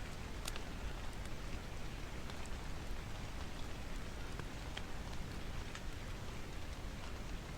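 Steady rain hiss mixed with scattered small clicks and pops from a crackling wood fire, a continuous rain-and-fireplace ambience.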